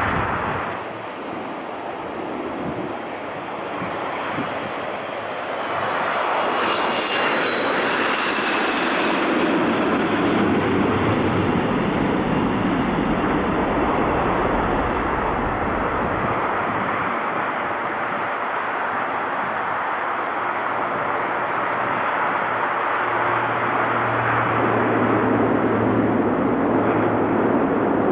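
Jet airliner engines running as a plane moves through the airport, a steady rush of engine noise with a high whine that swells for a few seconds about a quarter of the way in.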